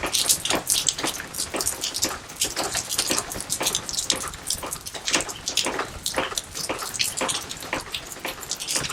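Rain falling steadily, many close individual drops striking and splashing in an irregular, dense patter.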